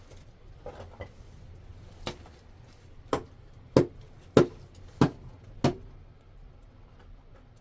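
A run of sharp, evenly paced knocks or strikes, about one every two-thirds of a second, six in all, the last four loudest, with a few faint taps before them.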